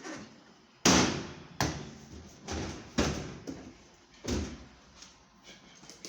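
A series of about six knocks and thumps from washing machine parts being handled while the machine is taken apart. The first, about a second in, is the loudest.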